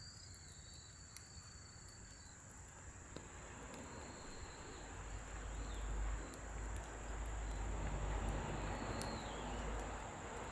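Scrap-wood fire burning in a fire pit, crackling with scattered sharp pops, while a low rushing noise swells from about halfway and eases near the end. A steady high chirring of crickets runs underneath.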